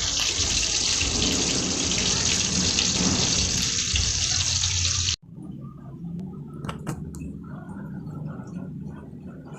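Red tilapia frying in hot oil, a loud steady sizzle that cuts off abruptly about five seconds in. After it, a much quieter stretch with a few light clicks.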